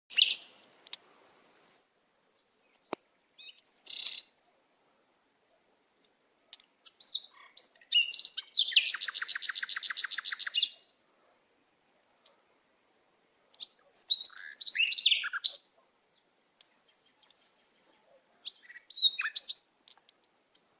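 Small songbird chirping and calling in short high phrases with gaps between them, including a rapid trill of about ten notes a second lasting around two seconds near the middle.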